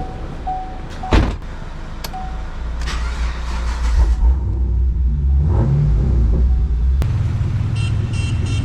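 Chevrolet Camaro being started and driven off: a sharp thud about a second in, then the engine's low rumble builds, rises briefly in pitch, and settles into a steady low drone.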